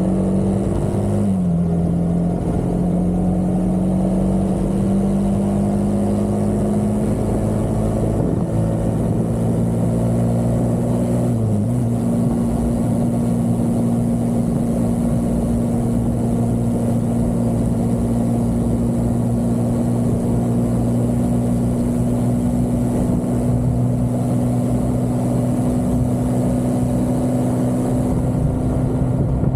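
Vehicle engine pulling hard on the road, its note holding steady and slowly climbing. It dips briefly three times in the first half, as if between gears, along with steady road and wind noise.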